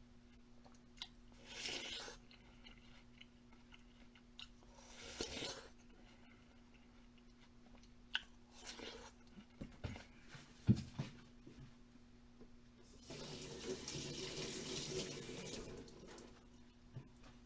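Faint close-up eating sounds. There are several short crunchy, rustling bursts and sharp clicks, then a longer wet, watery noise lasting about three seconds near the end.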